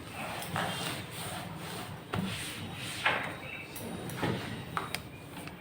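Wet cloth soaked in detergent water rubbing over the inside of a refrigerator, in several separate wiping strokes, with two sharp clicks near the end.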